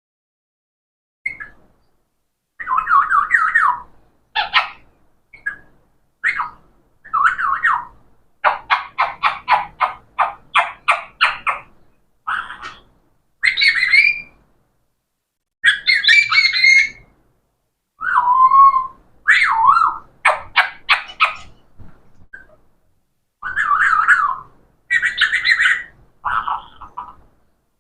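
Pet parrot squawking in a long series of short, separate calls, with a fast run of about four calls a second about a third of the way in.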